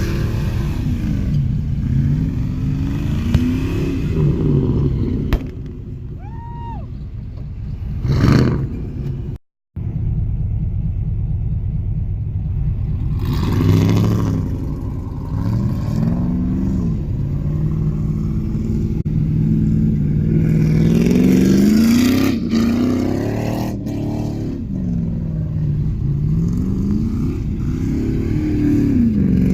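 Truck engine accelerating under load, its pitch climbing and then dropping again and again as it shifts up through the gears, interrupted by a couple of abrupt cuts.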